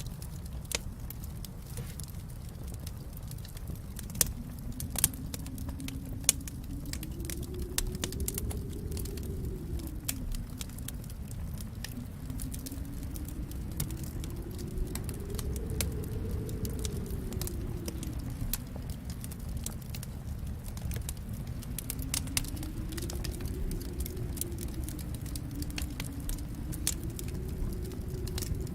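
Wood fire in a fireplace crackling, with frequent sharp pops and snaps, a few louder ones about four to six seconds in. Underneath runs a low steady rumble that slowly swells and fades.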